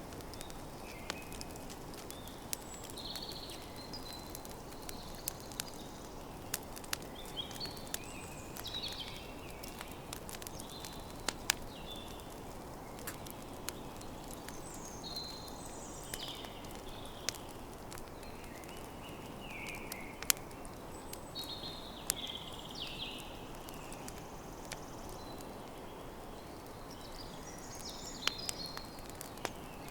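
Campfire crackling: irregular sharp pops and snaps, a few louder ones, over a steady low hiss of burning wood. Birds sing short chirping phrases throughout.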